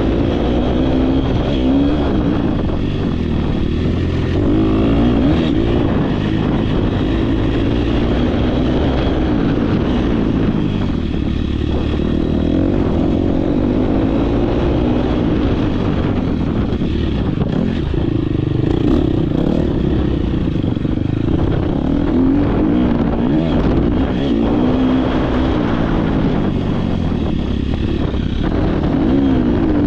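Off-road dirt bike engine ridden hard, its revs rising and falling again and again as the rider opens and closes the throttle and shifts.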